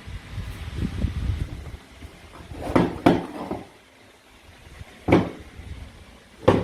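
Toy play food being handled and cut apart: low rustling and handling over the first two seconds, then four sharp plastic-or-wood clacks, two close together and two spaced out, as pieces are cut or pulled apart.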